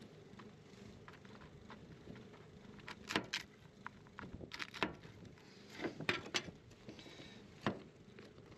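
Irregular knocks, clicks and light scrapes of wooden beehive frames being handled and slid into a hive box, the loudest knock about three seconds in.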